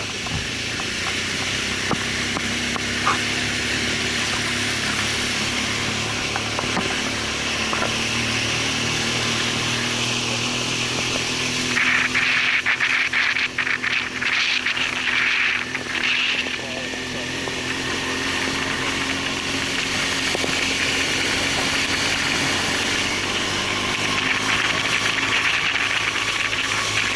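Motorbike engine running steadily during a ride, an even hum under constant wind and road noise. The hiss grows louder for a few seconds about halfway through.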